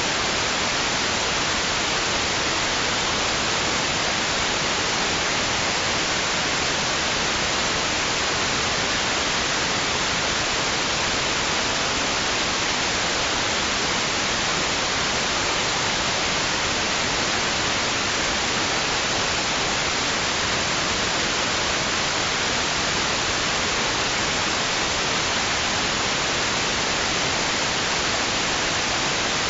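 White noise: a steady, even hiss that does not change at all, with none of the rise and fall of waves.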